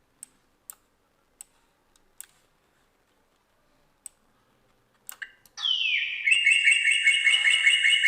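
A few mouse clicks, then about five and a half seconds in an eagle screech sound effect: a cry that falls steeply in pitch and runs into a rapid pulsing call. It is played with a small reverb added for an outdoor echo.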